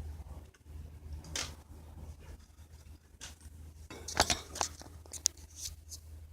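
Small pet birds pecking and scratching at their cage and toy: scattered clicks, crunches and scrapes, busiest about four seconds in, over a faint low hum.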